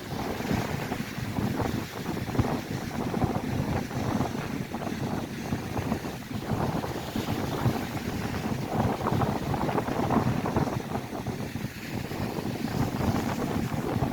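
Strong gusty wind buffeting the microphone over lake waves breaking and washing on the shore.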